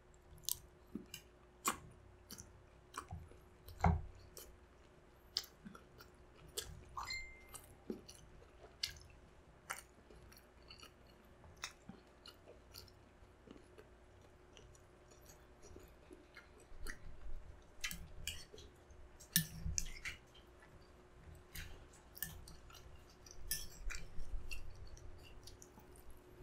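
Mouth sounds of a person chewing balut (boiled fertilized duck egg) heaped with chopped chili: irregular wet clicks and smacks, more frequent in the second half.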